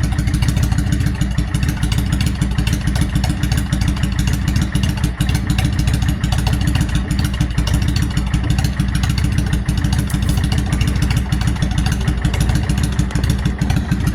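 Yamaha V-Star motorcycle's V-twin engine running steadily at idle with newly fitted carburetor intake boots; the owner thinks the carburetors still need cleaning.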